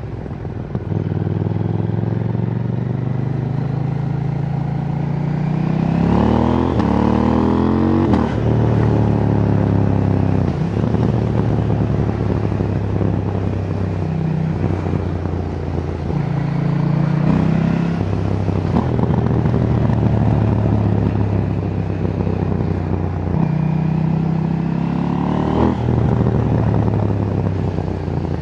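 KTM 790 Duke's parallel-twin engine on its stock exhaust, ridden hard: about six seconds in it revs up through a run of quick quickshifter upshifts, each a climb in pitch cut by a short drop, then settles to a steady cruise. It pulls up in pitch again briefly about a third of the way from the end and once more near the end.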